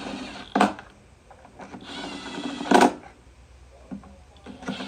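Small electric power tool, a cordless drill/driver, whirring in short bursts, with one longer run of about a second near the middle.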